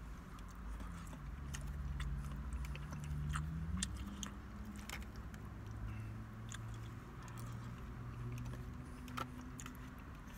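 A man chewing mouthfuls of steak teriyaki and rice close to the microphone, with many scattered sharp clicks and smacks, over a low steady hum.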